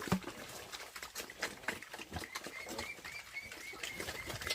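Farm animals: a short low grunt at the start and a quick run of high cheeping calls midway, over many small clicks and taps.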